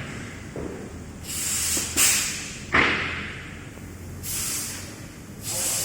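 Bursts of air hissing from a press machine, four times, each about half a second long, with two sharp knocks in the middle.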